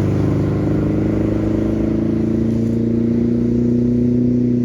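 Ski boat engine running at speed, a loud, steady drone.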